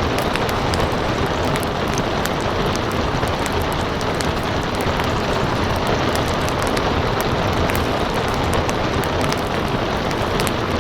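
Steady rain hiss with crackling wood fire: frequent sharp pops and snaps over the continuous rush of rain.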